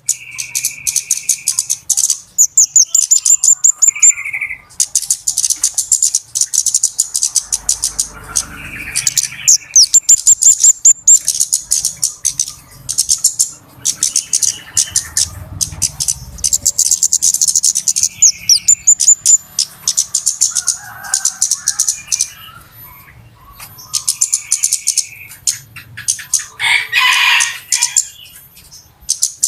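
Flowerpeckers (kemade / cabe-cabean) calling in a dense, continuous run of rapid, very high-pitched chirps and ticking trills. Short, steady, lower whistled notes break in every few seconds. A harsher, lower call comes in near the end.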